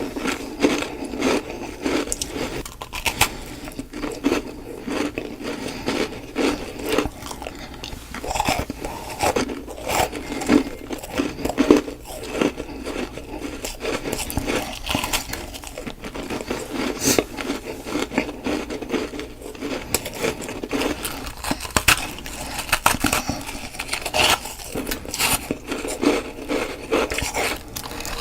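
A person biting and chewing ice close to the microphone: a dense, uneven run of crunches and grinding, one bite after another.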